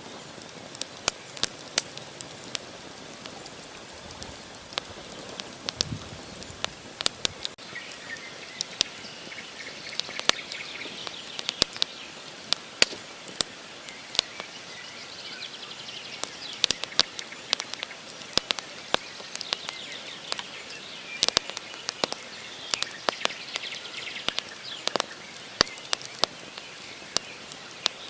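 Wood campfire crackling, with frequent sharp pops and snaps of burning logs. From about eight seconds in, birds call in the background.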